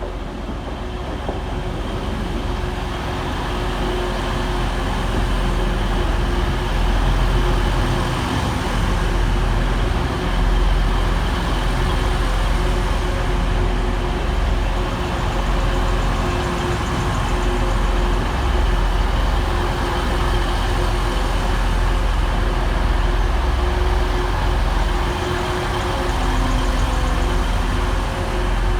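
A pair of Class 185 diesel multiple units running with a steady, loud diesel drone and low rumble as they arrive and stand in the station.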